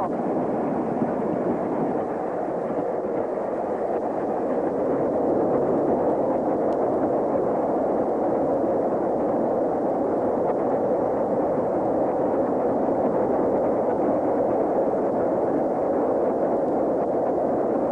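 Steady rushing rumble of a moving steam-hauled train, heard from on board, even in level with no separate beats or whistle.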